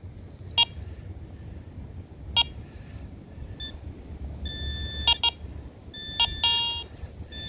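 Metal detector sounding off on a buried pull tab in a string of short electronic beeps, with a longer held tone about halfway through and a warbling tone near the end.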